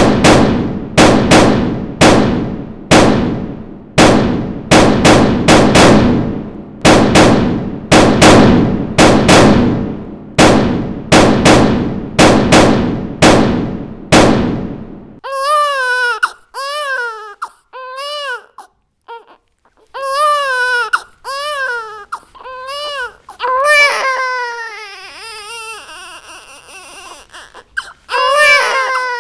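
Loud sharp bangs, one or two a second, each dying away with a ringing tail, for about the first half. They stop abruptly and give way to an infant crying in repeated wailing cries that rise and fall in pitch.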